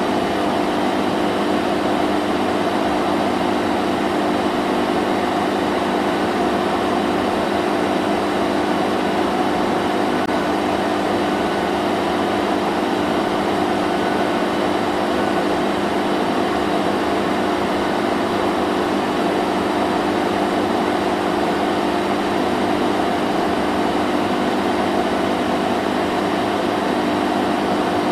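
Vacuum cleaner running continuously at a steady pitch: an even motor hum over a broad rush of air, unchanging throughout.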